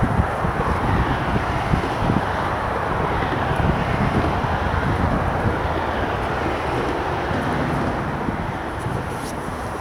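Steady hiss and rumble of road traffic crossing a busy road bridge, with wind buffeting the microphone in low gusts.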